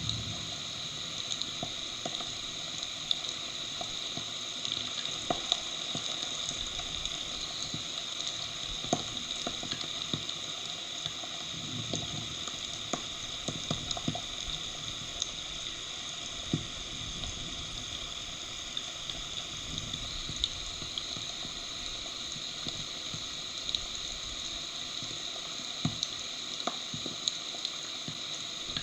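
Heavy rain falling steadily, with many scattered sharp drops ticking close by.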